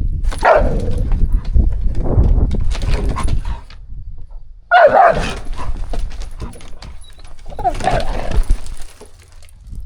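Two dogs play-fighting: growling and barking, with loud outbursts about half a second in, near the middle and near the end, over scuffling.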